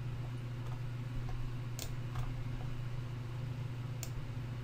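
Three faint computer mouse clicks, two close together about two seconds in and one near four seconds, over a steady low electrical hum.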